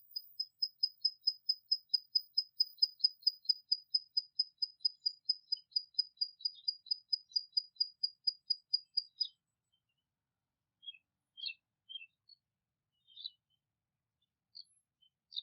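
A songbird repeating one short, high note in a fast, even trill of about five notes a second for roughly nine seconds. It stops abruptly, and a few scattered short chirps follow.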